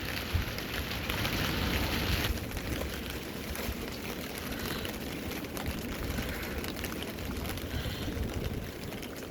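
Rain falling steadily as a storm eases, a fuller hiss for the first couple of seconds that then drops to a softer, lighter patter.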